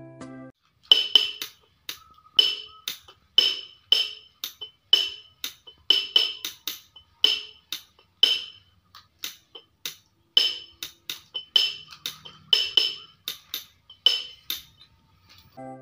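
A series of sharp, separate knocks struck one at a time in an uneven rhythm, about one or two a second.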